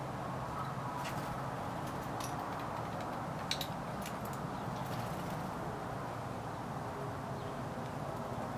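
Steady backyard background noise with a low hum, and a few short, sharp high clicks between about one and five seconds in.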